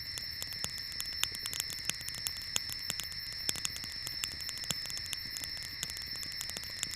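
Rainforest insects keep up a steady high two-pitched trilling, with irregular sharp clicks scattered throughout.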